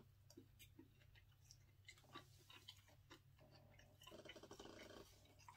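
Faint close-up chewing of takeout food, with wet mouth clicks, and a short hummed "mm" about three and a half seconds in, over a low steady hum.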